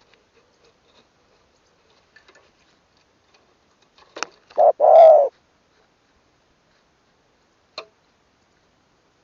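Spotted dove cooing once: a short note, then a longer, louder arching coo about halfway through. Sharp clicks come just before it and again near the end.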